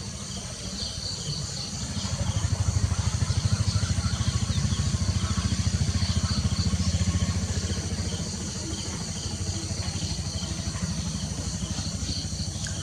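Low rumbling noise with a rapid flutter that swells about two seconds in and stays steady, over a faint high hiss.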